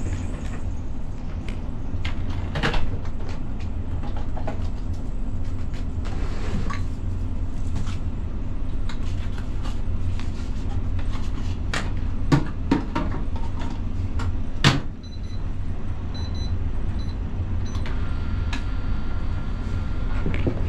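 A microwave oven being loaded and started: knocks and a loud thump as the food goes in and the door shuts, a few short keypad beeps, then a steady hum as it starts heating near the end. A low steady rumble from the idling truck runs under it all.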